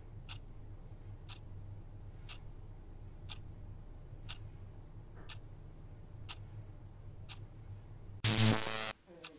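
A clock ticking about once a second over a low steady hum. Near the end a loud, harsh buzz lasts about half a second and cuts off suddenly.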